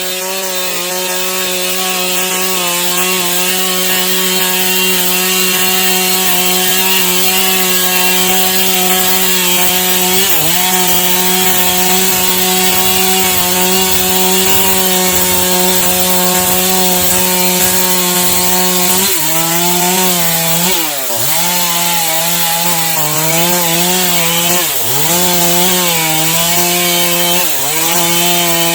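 Stihl chainsaw running at high revs while cutting wood, its pitch steady at first. About two-thirds of the way through, the pitch starts dipping briefly again and again.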